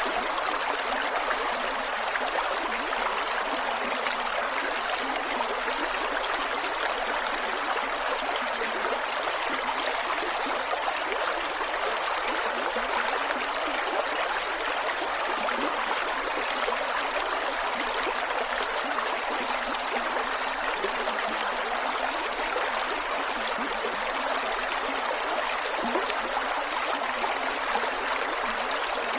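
Creek water flowing over rocks, a steady rushing with gurgles.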